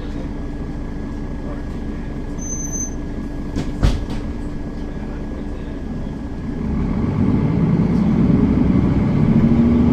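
Mercedes-Benz Citaro city bus heard from inside the cabin: the engine runs steadily, with a short knock about four seconds in, then it grows louder from about six and a half seconds as the bus accelerates.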